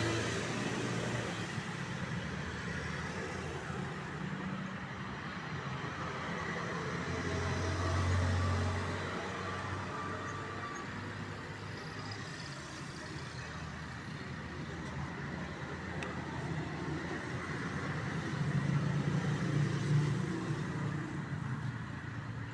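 Road traffic passing by: a steady hum of vehicles, with a louder low engine rumble swelling about eight seconds in and again near the end.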